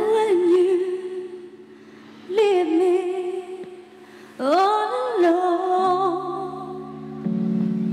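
Wordless singing: three held vocal notes, each sliding up into a wavering vibrato. Sustained backing chords come in near the end.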